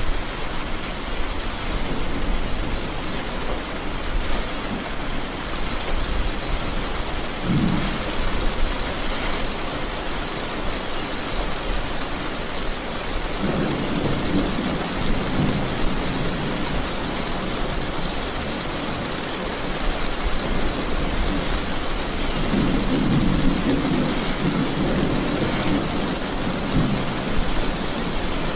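Steady rain with thunder rumbling: a short rumble about a quarter of the way in, then longer rolling rumbles near the middle and again later on.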